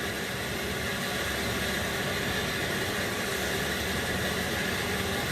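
Steady background hiss, even and unchanging, with no distinct sounds standing out.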